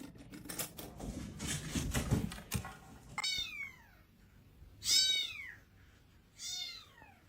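Domestic cat meowing three times in the second half, each call falling in pitch and the middle one the loudest. Before the meows, a run of clicks and rustling.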